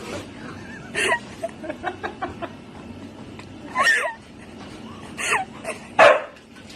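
A dog barking: four short barks spread over several seconds, the last one the loudest.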